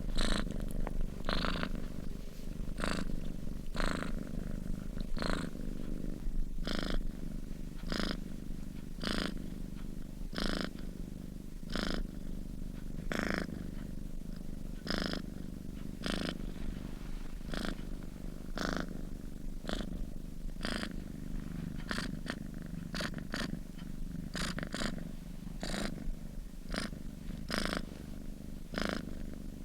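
Sleeping domestic cat purring steadily: a low rumble with a short, sharper pulse about every three-quarters of a second.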